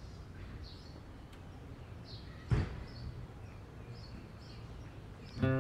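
Quiet outdoor ambience with a few faint, short bird chirps and a single sharp knock about halfway through. Strummed acoustic guitar music starts just before the end.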